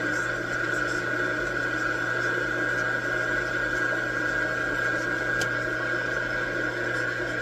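Metal lathe running steadily, with a constant high whine over a low hum.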